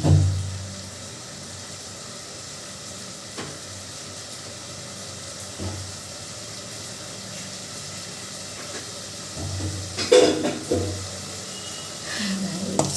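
Food sizzling in hot oil in a pan, a steady hiss, with a few faint knocks and a louder clatter about ten seconds in.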